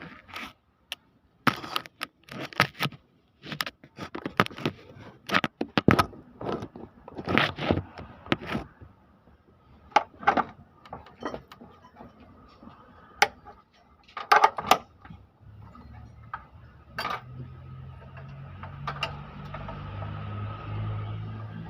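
Metal tools and engine parts clinking, clanking and scraping in quick, irregular knocks. In the last few seconds a low steady hum comes in underneath.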